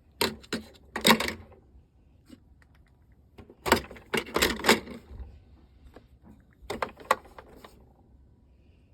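Light clattering and clicking of small items and containers being handled and opened, in four short bursts: about a second in, around four seconds in, and near seven seconds, after a brief one at the very start.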